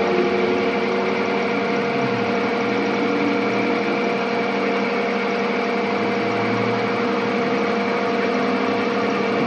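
A workshop machine running steadily: a constant mechanical hum with a few fixed tones over an even noise, not changing in speed.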